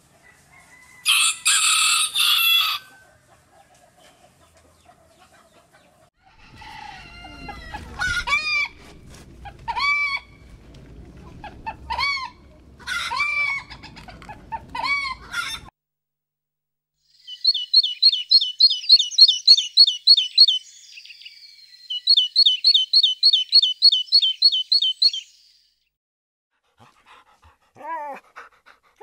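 Domestic fowl calling: a short harsh squawk near the start, then a series of repeated arching calls about every two seconds, then two long runs of fast, rapidly repeated high notes.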